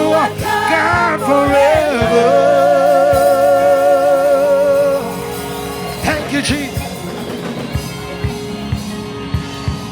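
Live gospel song with a male singer and band: the singer finishes the line with a long held note that stops about five seconds in, after which the band plays on more softly with drum hits.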